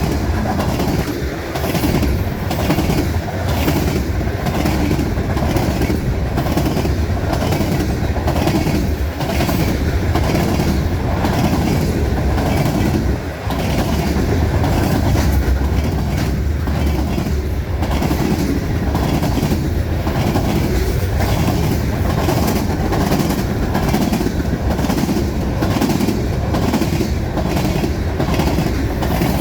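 Freight cars of a manifest train rolling past, their steel wheels clicking in a steady rhythm over the rail joints above a continuous rumble.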